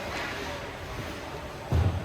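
Ice rink ambience during a stoppage in play: faint background voices over a steady hum of noise, with one dull low thump near the end.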